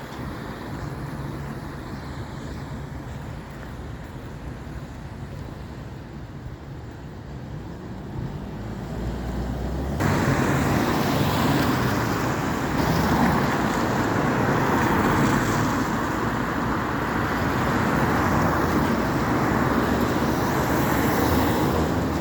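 Road traffic: a steady rush of engine and tyre noise from passing vehicles, which turns suddenly louder about ten seconds in.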